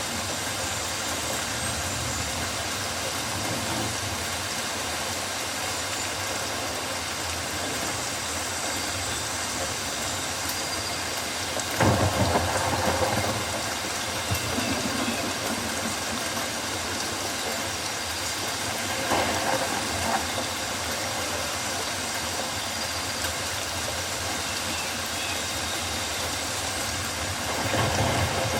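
Steady rain falling on rainforest foliage, an even hiss, with three brief louder swells about twelve seconds in, about nineteen seconds in and near the end.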